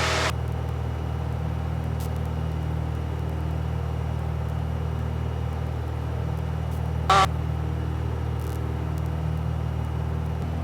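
Single-engine Cessna 172G, with its Continental O-300 six-cylinder engine, droning steadily at climb power, heard from the cockpit.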